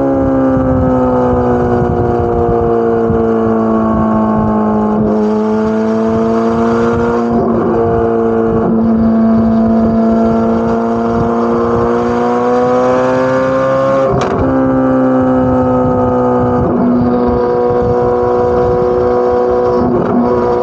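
Chevrolet Corvette C8 Z06's flat-plane-crank 5.5-litre V8 exhaust, held at steady mid revs with a slow dip and rise in pitch. About two-thirds of the way through there is a single sharp crack with a brief drop in level.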